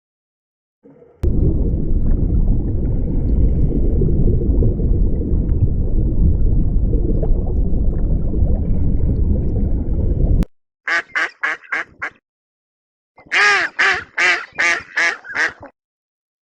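Duck quacking in two quick runs of short calls, about five and then about seven. These follow a loud, low, steady noise lasting about nine seconds that cuts off suddenly.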